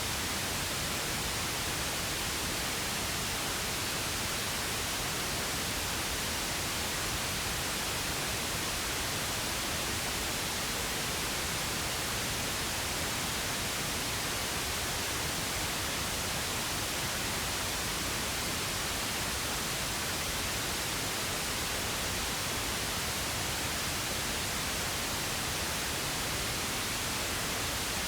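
Steady, unbroken pink noise: an even hiss spread evenly across all frequencies, with no change in level.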